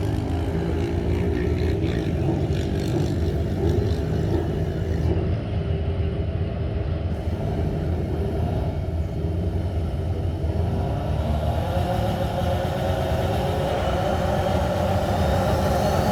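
Pro Street drag-racing motorcycle engines running loudly and steadily as a pair races, the pitch rising a little near the end.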